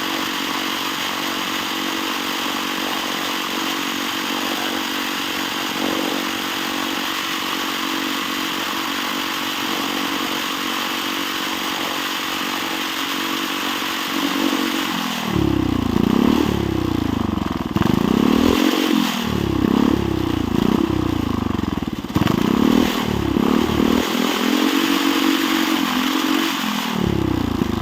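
Chinese-made engine held at a steady high rev under full throttle. About halfway through the revs drop off, then rise and fall again and again as the throttle is let off and blipped.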